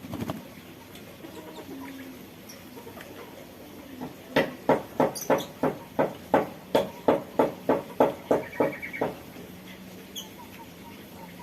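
A bird calling in a rapid run of about fifteen loud, evenly repeated notes, about three a second, starting about four seconds in and stopping after about five seconds.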